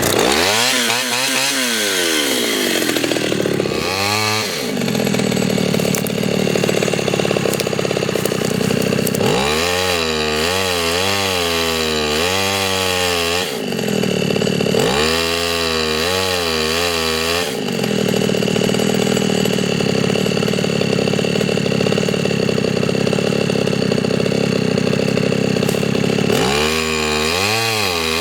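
Two-stroke chainsaw running hard as it cuts the maple, its engine speed swinging up and down again and again between stretches of steady full-throttle running.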